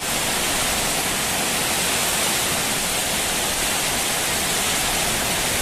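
Heavy summer-storm rain falling, a steady dense hiss without a break.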